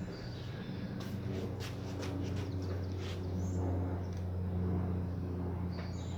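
A steady low engine-like hum, with a few brief high chirps like birds calling and several short clicks over it.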